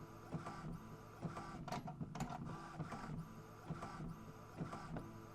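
Printer running a print job: repeated passes of its carriage motor, a whirring with several steady tones, stepping and clicking, recurring every second or so.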